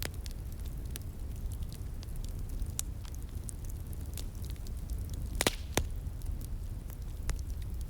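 Wood fire crackling, with scattered sharp pops and snaps and two louder pops close together a little past the middle, over a low steady rumble.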